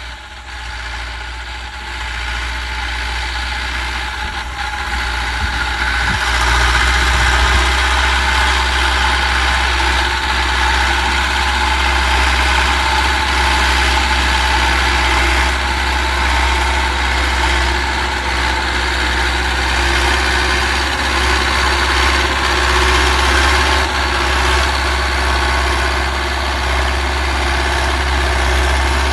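Belarus MTZ 820 tractor's four-cylinder diesel engine running steadily while pulling a four-furrow plough. It grows louder over the first few seconds, then holds steady.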